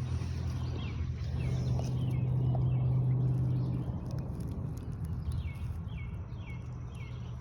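Birds chirping: a run of short, falling chirps, quickening a few seconds in. Under them is a steady low hum.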